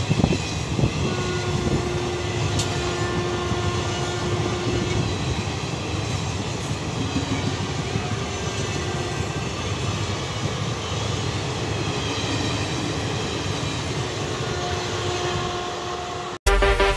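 A train running past on the track, with a steady rumble and rattle of wheels and wagons over the rails. Near the end it cuts off abruptly and loud electronic music begins.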